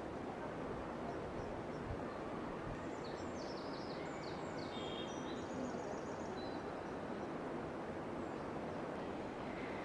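A bird sings a short burst of high, quick chirping notes about three seconds in, over a steady outdoor rushing hiss.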